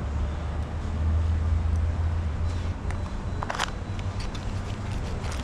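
A steady low rumble of workshop background. About three and a half seconds in come a few light clicks and taps as small parts are handled.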